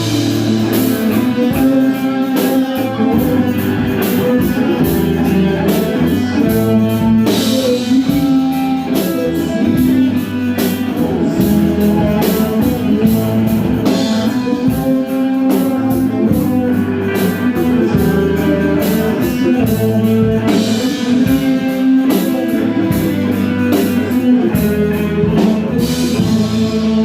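A band playing guitar-led music with a steady drum-kit beat.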